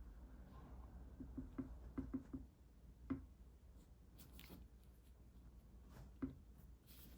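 Faint sounds of drawing on paper: light taps and short strokes, a quick run of them about a second and a half in and single taps about three and six seconds in, over a low steady hum.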